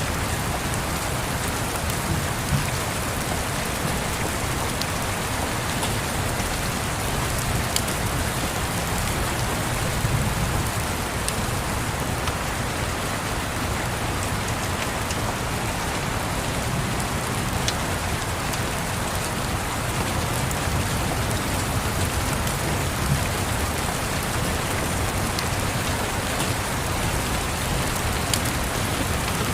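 Steady rain with a low rumble swelling and fading underneath, and scattered sharp crackles from a wood fire.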